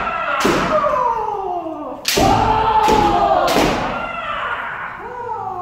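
Several kendo practitioners shouting kiai together, each shout falling in pitch, with sharp bamboo shinai strikes and stamping footwork landing several times during the wrist-strike drill.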